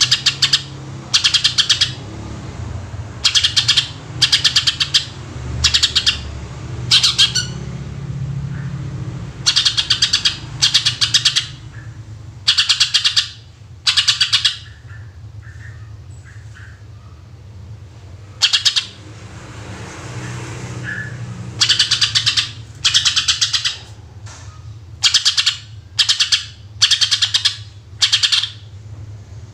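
Cucak ijo (green leafbird) singing in loud 'tembakan' shots: short bursts of very fast repeated shrill notes, each under a second, coming again and again with brief gaps, over a steady low hum.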